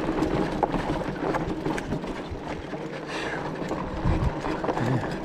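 E-bike jolting over rough rock, with a steady run of small knocks and rattles from the frame and tyres, mixed with wind noise on the microphone.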